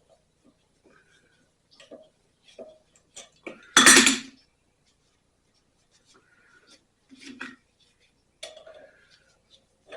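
Metal tools and small parts clinking and tapping as they are handled, with one loud clatter about four seconds in.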